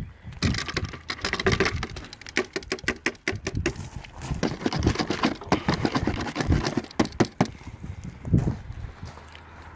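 Rapid, irregular clicking and tapping of hand work on resin-wet fiberglass cloth laid over a boat rudder, as it is worked and leveled out.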